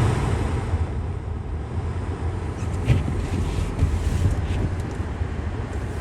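Steady low rumble of a car driving, with a few faint clicks about three and four seconds in.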